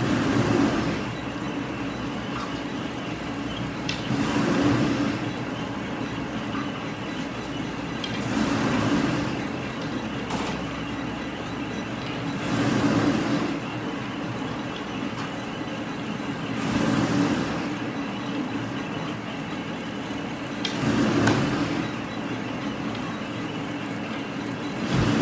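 Industrial machinery running in a steady cycle, with a rushing, hiss-like surge about every four seconds over a continuous mechanical hum.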